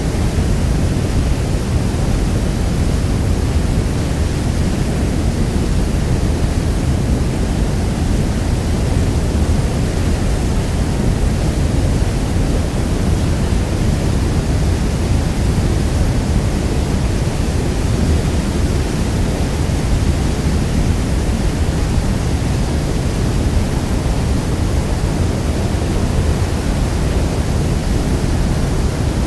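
Niagara Falls: the steady, deep rush of a very large waterfall, an unbroken wash of falling water heaviest in the low end.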